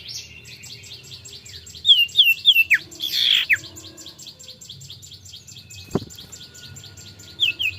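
Common iora singing: a fast, even chattering trill of about seven notes a second, broken by a few loud down-slurred whistles about two to three and a half seconds in and again near the end. A single low thump about six seconds in.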